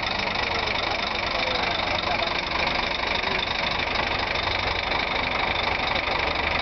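Scania K420 coach's diesel engine idling steadily.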